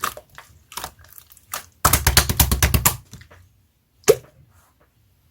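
Slime being squished and pressed, giving wet clicks and air-bubble pops: a quick run of about ten pops a second for about a second, then one sharp pop.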